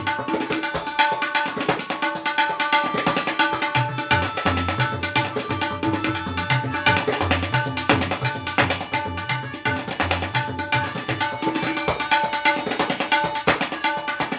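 Tabla solo in teentaal: fast, dense strokes on the treble drum (dayan), with deep, ringing strokes on the bass drum (bayan) recurring in groups through the passage.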